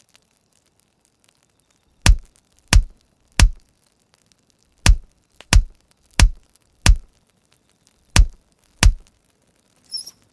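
Axe chopping firewood: nine heavy thuds in runs of three, four and two, about two-thirds of a second apart, with a fainter high-pitched sound near the end.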